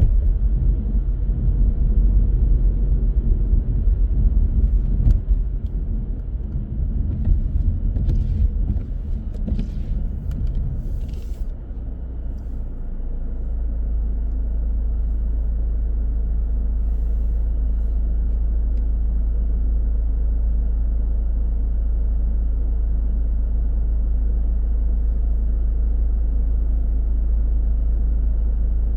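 Car driving through city streets: an uneven low rumble of road and engine noise with a few light clicks, which about twelve seconds in settles into a steady low hum.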